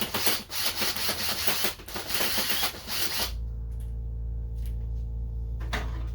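Rough metal scraping and rubbing for about three seconds as the Mini's old front bumper is worked free of the body. It stops abruptly, leaving a steady low hum with a faint knock or two.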